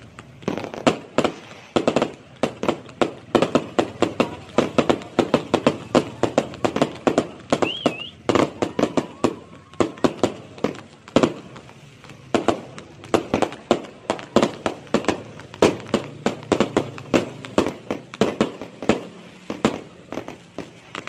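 A fireworks display going off in a fast, uneven barrage of sharp bangs and crackles, several a second, with only short lulls.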